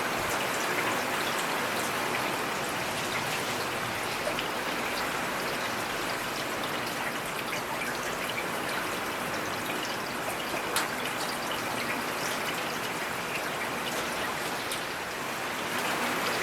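Steady rain falling in a forest, an even patter with many scattered separate drops.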